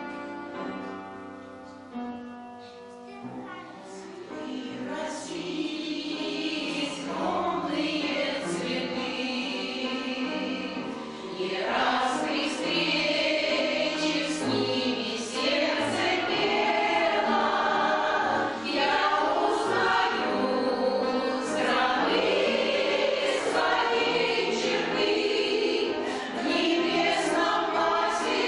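A choir singing a song with piano accompaniment. It opens on a few seconds of piano, the voices come in about three seconds in, and the singing grows fuller and louder about twelve seconds in.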